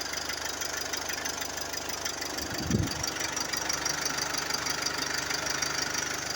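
Mercedes-Benz GLE 250d's four-cylinder turbo-diesel engine idling steadily, with one brief low thump a little under three seconds in.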